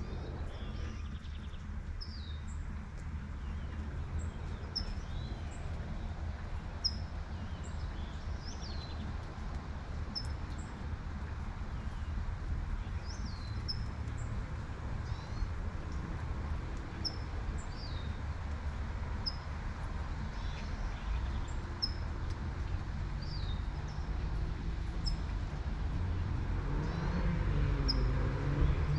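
Birds chirping repeatedly, short high notes and quick falling calls about once a second, over a steady low rumble of distant traffic and light rain. A car passes near the end, its sound swelling.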